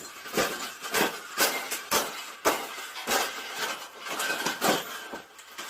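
A series of sharp knocks and clatters, about two a second and uneven in strength, over a faint steady high tone.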